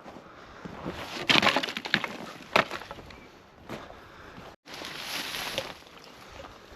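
Dry sticks and branches cracking and snapping, a run of cracks and then one sharp snap, followed by a stretch of crunching and rustling.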